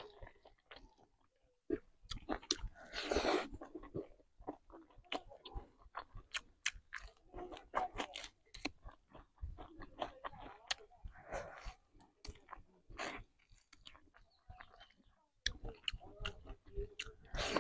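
Close-miked eating sounds: a person chewing and crunching mouthfuls of masala chicken, rice and raw green beans, in a steady run of sharp crunches and mouth sounds with a short lull near the end.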